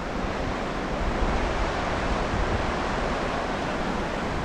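Whitewater river rapid: a steady rush of tumbling water, with a low rumble underneath.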